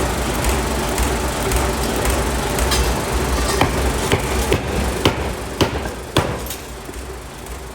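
Sharp metallic hammer strikes, about six of them roughly half a second apart, each with a short ring. They come over a steady low machine hum, and the overall level falls off after the last strike.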